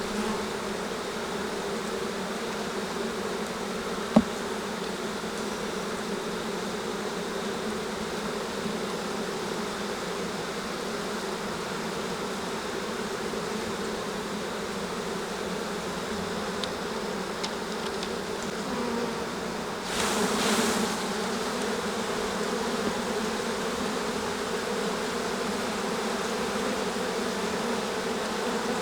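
Honeybee colony buzzing steadily around an open hive. There is a sharp click about four seconds in and a brief burst of noise about two-thirds of the way through.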